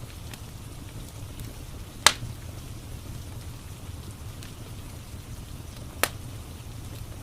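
Wood fire crackling, with two sharp pops, one about two seconds in and one about six seconds in, over a steady hiss of rain.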